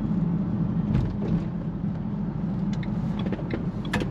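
Steady low engine and road drone heard from inside a moving van's cab, with a couple of brief clicks.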